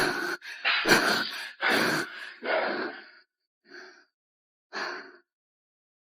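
A person's breathy gasps and sighs in a quick run of short breaths, then two weaker breaths about four and five seconds in, and then silence.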